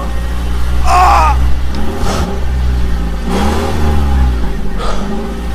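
A vehicle engine running over a steady low hum, its pitch rising and falling as it revs. There is a short high squeal about a second in.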